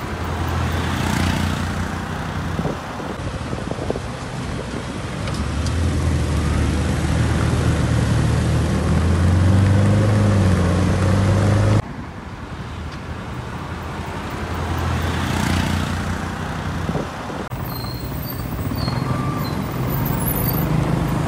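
Ferrari F8 Spider's twin-turbo V8 running at speed with road and wind noise, its engine note climbing steadily over several seconds. The sound cuts off suddenly about halfway through and gives way to another stretch of the engine running.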